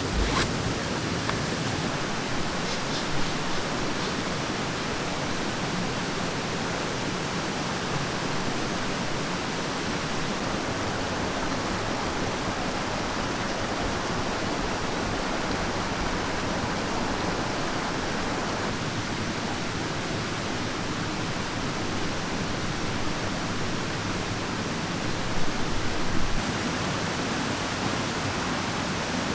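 Mountain stream rushing steadily: an even wash of flowing water, with a brief cluster of louder knocks near the end.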